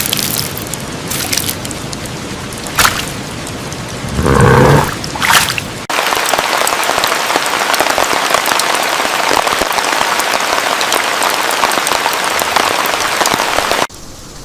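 Rain falling, with a few sharp cracks in the first seconds and a louder swell about four seconds in, then a steady, heavier hiss of rain that cuts off suddenly near the end.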